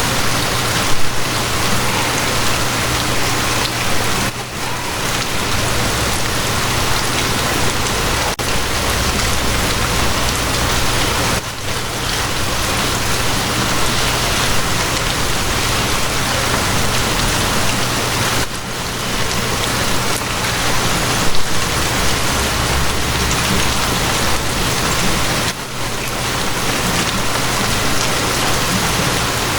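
Steady rain falling, a dense even hiss, with a low steady hum underneath.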